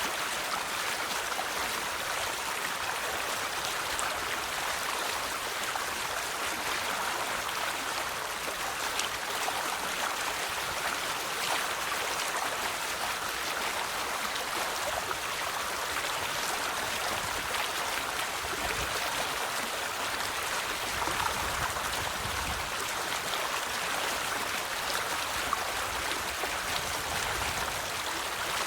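River water flowing over stones: a steady rushing babble with small splashes and trickles, no changes.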